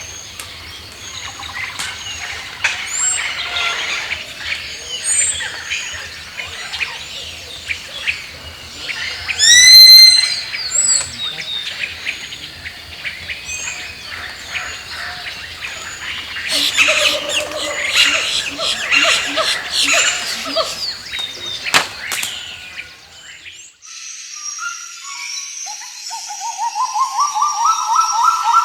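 Several birds calling and chirping over a forest background. About ten seconds in comes a loud run of rising whistled notes, and later a dense spell of chirping. Near the end, in a quieter background, a rapid trilled call starts.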